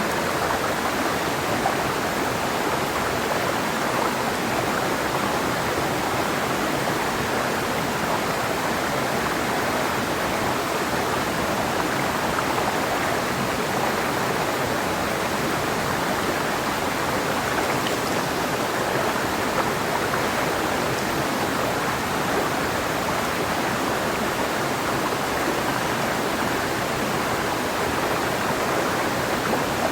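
Clear mountain river flowing over rocks, a steady, even rushing of water.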